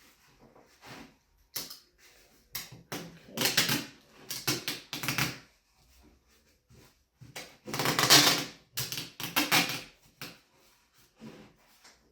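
Package tape being pulled off its roll and wound around the joined tubes: a series of irregular, crackling rips of varying length. The longest and loudest comes about eight seconds in.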